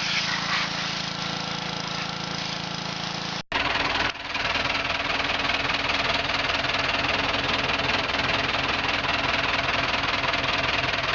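An engine running steadily, with a brief break about three and a half seconds in, after which it runs on with an even, pulsing beat.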